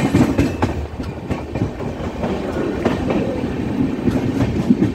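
Moving passenger train heard from an open coach doorway: steady rumble of the running coach with irregular wheel clacks over the rail joints.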